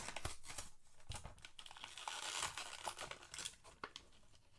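Plastic and cardboard toy packaging crinkling and tearing as a die-cast model truck is worked out of its package, with scattered sharp clicks and a denser rustle about two seconds in.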